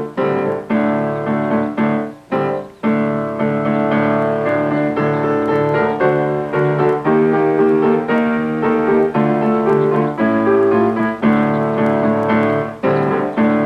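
Piano playing an instrumental passage, a run of chords and melody notes with no singing.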